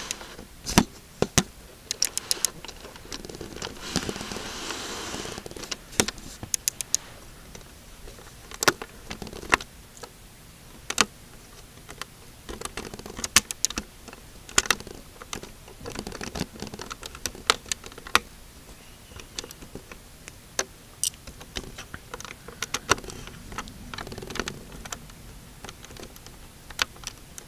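Hard plastic LEGO pieces clicking and tapping under fingers as the engine hatch on a LEGO tank model is worked open, with irregular sharp clicks throughout and a brief rustling scrape about four seconds in.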